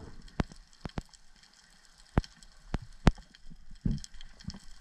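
Underwater sound on a coral reef: sharp, irregular clicks and snaps, about eight of them, over a faint low wash of water.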